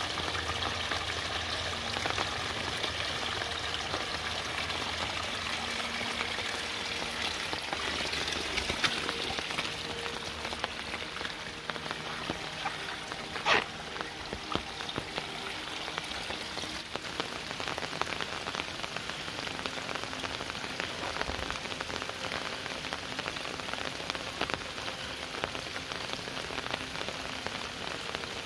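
Steady rain pattering on leaves and ground. For the first several seconds a small stream of water splashing down over rocks adds a low rush. About halfway through there is a single sharp knock.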